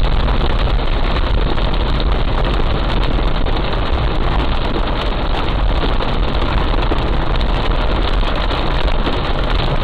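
Heavy rain pouring, a loud, steady, dense hiss full of fine patter, over a deep continuous rumble.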